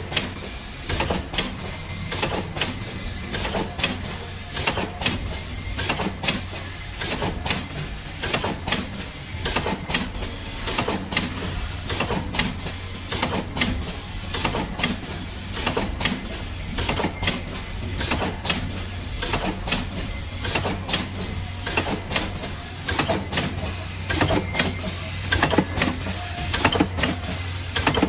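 Tea bag packing machine running, a steady low hum with regular sharp clacking from its mechanism, about two clacks a second.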